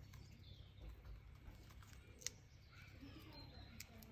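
Near silence: faint bird chirps over a low steady background rumble, with a single sharp click a little after two seconds in.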